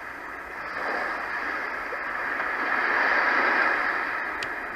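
Roffie N600 sound machine playing its recorded water track through its small speaker: a steady rush of water noise that swells to a peak about three seconds in and eases off, like a wave. A single button click near the end as the next sound is selected.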